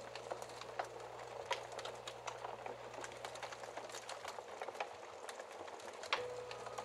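Wood fire crackling with many small, irregular pops and snaps. A faint held musical note lingers underneath, and a soft new note comes in about six seconds in.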